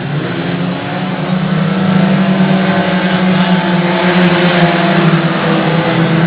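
A vehicle engine running with a steady low drone over a rushing noise, getting louder about a second in.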